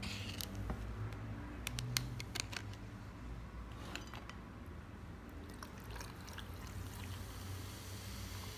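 A drink poured into a glass over ice, with several sharp clinks of ice against glass in the first half.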